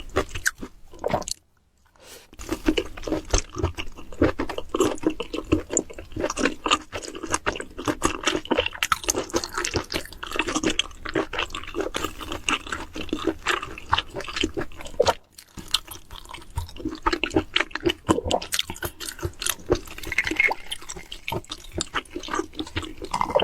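Close-miked eating: a person chewing and smacking on food with wet mouth sounds, dense irregular clicks and crunches, pausing briefly twice.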